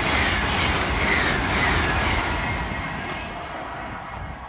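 LNER Azuma high-speed train passing at speed: a loud, steady rush of wheel and rail noise that fades over the last couple of seconds as the train draws away.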